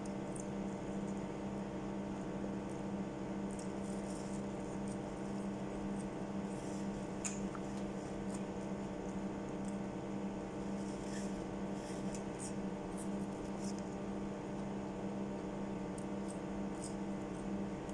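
Soft, scattered mouth clicks and smacks of someone chewing French fries, over a steady electrical hum.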